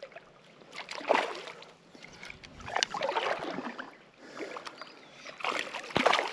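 Creek water splashing and sloshing in a few irregular bursts, with a sharp knock near the end.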